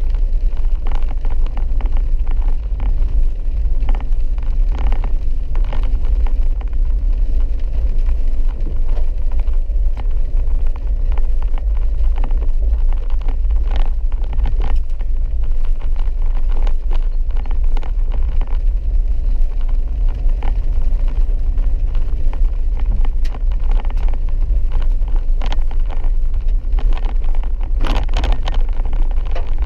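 Steady low rumble of a vehicle's engine and tyres heard from inside the cabin while driving, with scattered small knocks and rattles.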